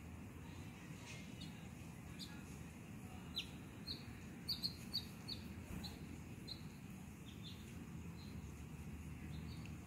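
Small bird chirping: a run of short, high chirps starting about three seconds in and thinning out near the middle, over a steady low background rumble.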